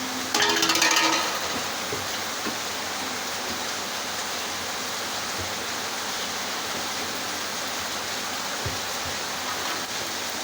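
EPT engine cooking stove's burner running with a steady rushing noise. About half a second in, a brief louder sound with ringing tones lasts about a second.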